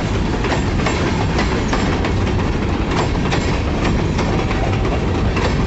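Long freight train of grain hopper cars rolling past, wheels clacking irregularly over the rail joints, with wind buffeting the microphone.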